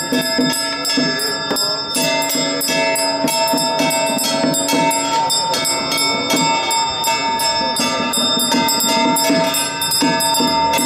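Bells struck in quick succession and ringing on continuously, their tones overlapping without a break.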